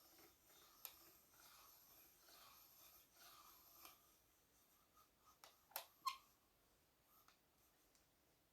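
Faint, uneven scraping and rubbing from the AcuSlide cocking mechanism of a TenPoint Turbo S1 crossbow, then two sharp clicks in quick succession about six seconds in. This is the noise the AcuSlide is making as it is worked.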